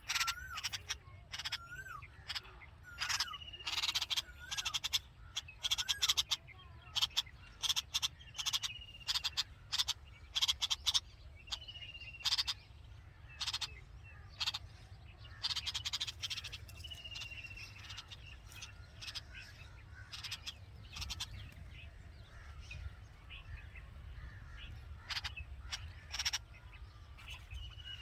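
Red-vented bulbuls calling at the nest: rapid, irregular clusters of sharp short chips, with short descending whistled notes every second or two that thin out after the first half.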